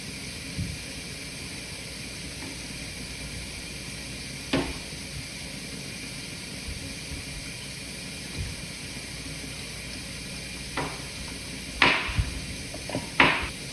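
Steady hiss of kitchen water, with a few sharp knocks of utensils or cookware: one about a third of the way in and a louder cluster near the end.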